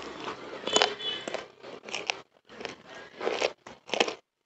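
A person chewing chicken and rice, with wet mouth smacks: a string of short, crackly eating noises a few times a second and a sharp click about a second in.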